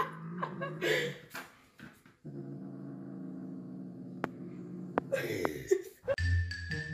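A dog growling: a steady low drone held for about three seconds, with short vocal sounds before and after it. Music starts near the end.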